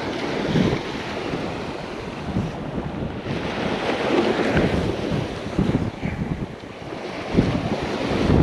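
Strong wind buffeting the microphone in gusts over the wash of surf on the beach.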